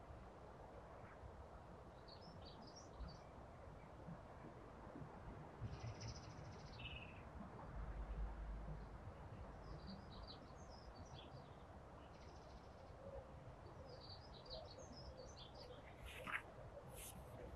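Faint, distant chirps of small garden birds in short scattered bursts over quiet outdoor hiss. A brief sharp click just after the 16-second mark stands out as the loudest moment.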